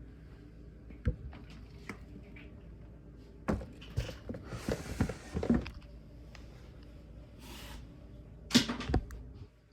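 Handling noise from a snake enclosure: scattered knocks and thunks with brief rustles while a feeder rat is offered, the loudest knock near the end.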